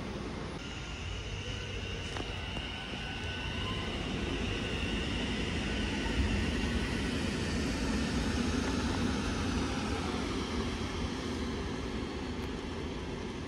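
VR electric multiple-unit train running through the station on steel rails: a steady rumble of wheels that is loudest about halfway through, with a high whine over the first half.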